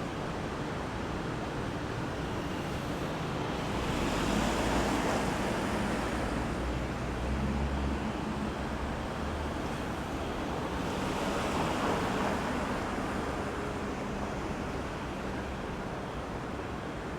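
Road traffic noise: a steady hiss of tyres and engines with two vehicles passing, swelling about four seconds in and again near eleven seconds, the first with a deep engine rumble.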